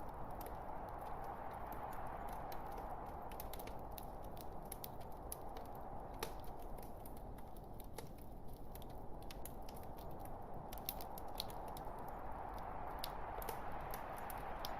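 Wood logs burning in a fireplace: a steady noise of the fire with many small sharp crackles and pops scattered throughout.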